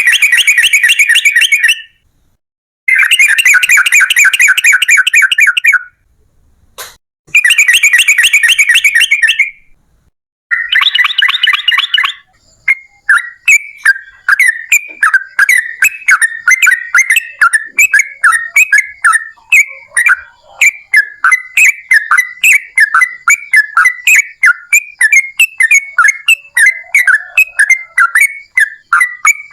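Yellow-vented bulbul (trucukan) song: four rapid, dense chattering trills of one to three seconds each with short breaks, then from about 12 seconds in a long run of quick repeated chirps, about three a second. A brief click sounds about 7 seconds in.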